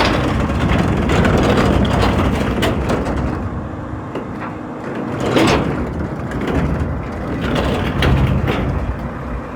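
Garbage truck engine running, with clanking and a few sharp knocks from the truck's equipment at work.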